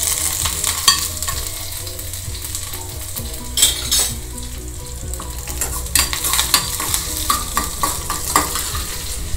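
Green chillies and a dried red chilli sizzling in hot oil with mustard seeds in a steel kadai, the tempering (thalippu) for curd rice, as they are stirred. A steady high sizzle runs throughout, with a few sharp clicks about a third of the way in and again in the second half.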